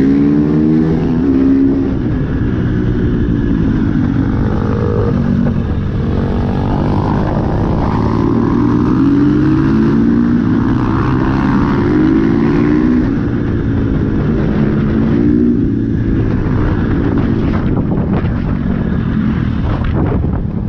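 Dirt bike engines revving hard while riding on the road, the pitch climbing and dropping repeatedly as the bikes accelerate and shift through the gears.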